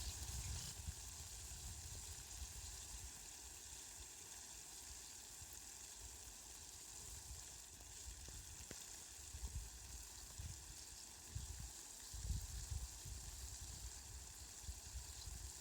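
Light rain falling in a steady, faint hiss, with a few soft low rumbles coming and going, the strongest a little after the middle.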